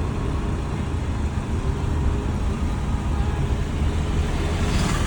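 A car driving on the road: a steady low rumble of engine and tyre noise, with other traffic around it.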